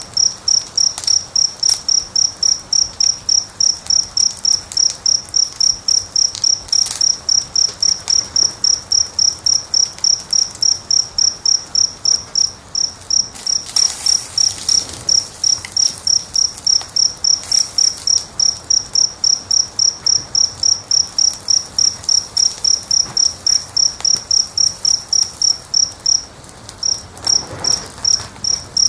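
A cricket chirping steadily, about three high-pitched chirps a second, pausing briefly near the end. A wood fire crackles and pops faintly underneath.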